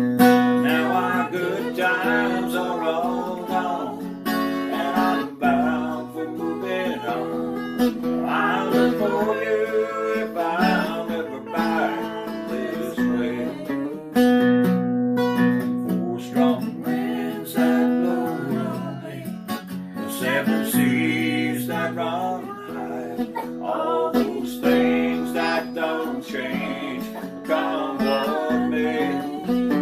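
Acoustic guitar strummed and picked in a steady folk accompaniment, an instrumental break with no sung words.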